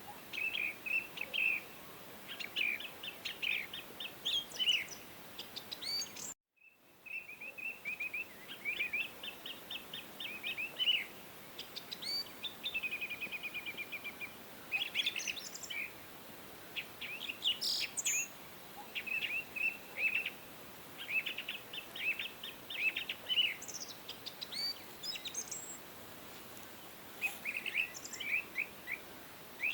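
Songbirds chirping and singing: many short, quick call notes and a rapid trill, over a faint steady hiss. The sound cuts out completely for about half a second just after six seconds in, then the birdsong resumes.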